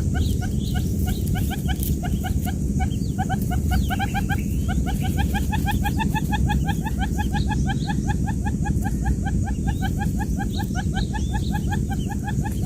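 Newly hatched quail chicks peeping: a continuous stream of short, high, rapidly repeated cheeps, several a second, over a steady low hum.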